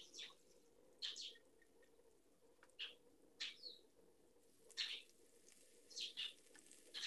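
Bird chirps in the background, short and high, coming in small clusters every second or so over a faint steady hum.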